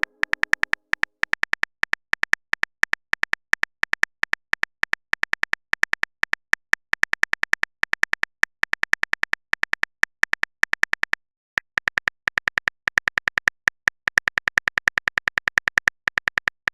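Rapid, uneven clicks of a phone keyboard typing sound effect, several a second, each with a short bright tone. They stop briefly about eleven seconds in, then carry on.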